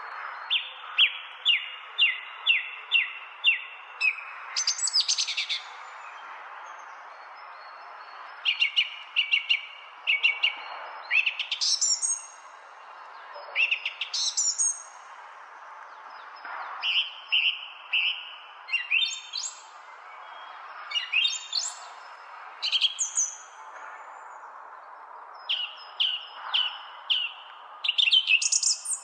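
Songbirds singing: short phrases of quick repeated chirps and rising whistles, coming every few seconds over steady background noise.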